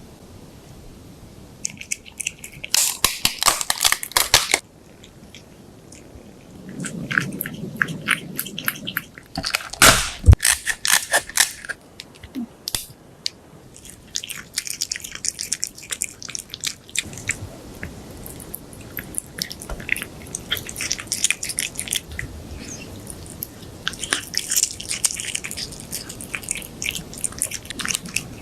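Crunchy chewing and biting, coming in several bursts of quick crackly clicks with short pauses between.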